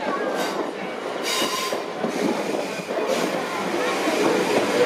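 Class 444 electric multiple unit running slowly through a level crossing: a steady rumble of wheels on rail, with short high-pitched squeals from the wheels.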